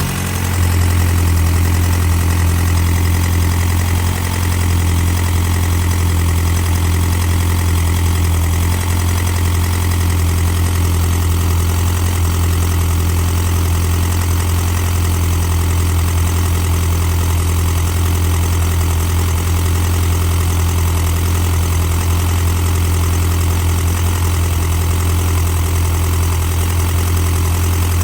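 McGregor engine running steadily with a clattering noise, which the owner links to having just set its timing.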